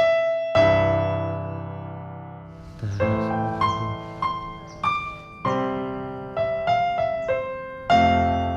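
Background piano music: a chord rings out and slowly fades, then a melody of single struck notes follows from about three seconds in.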